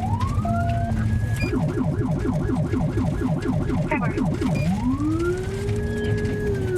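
Police car siren in a pursuit: a rising wail that holds, switching about a second and a half in to a fast yelp of about four sweeps a second, then back to a rising wail that holds and begins to fall near the end. A low vehicle rumble runs underneath.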